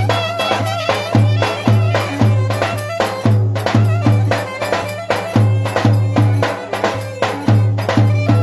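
Turkish folk music played by a band: a heavy, steady drum beat about twice a second under a wavering melody line.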